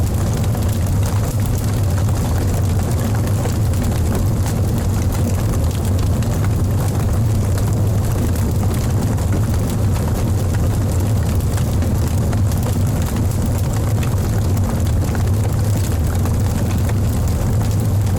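Wood fire burning in a fireplace: a steady low rumble with many small crackles and pops scattered through it.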